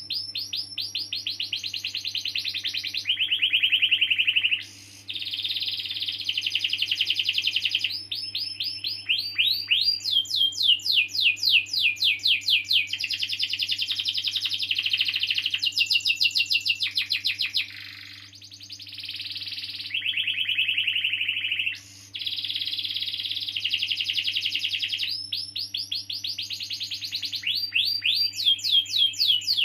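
Domestic canary singing a long, almost unbroken song: phrase after phrase of fast repeated notes and rolling trills, some notes sweeping down in pitch, with two short breaks. Underneath it runs a faint steady hum.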